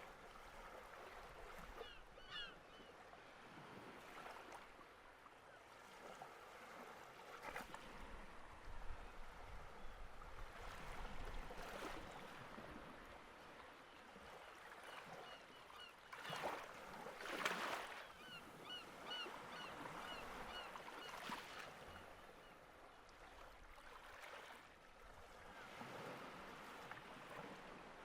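Faint beach ambience: a wash of wind and surf noise that swells now and then, with short runs of small high bird chirps a few times.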